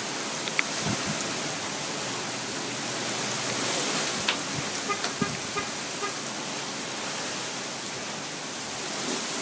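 Steady rushing noise of a monsoon dust storm's wind and blowing sand, with a few faint ticks and a short run of faint beeps about five seconds in.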